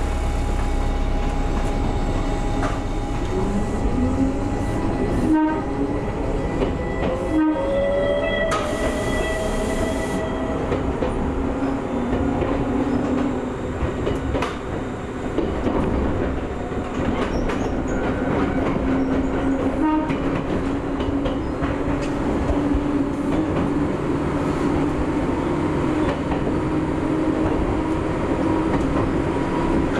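Gakunan Railway 7000-series electric railcar pulling away: the traction motor whine rises in pitch over the first several seconds, then the car runs on steadily with the wheels clacking over rail joints.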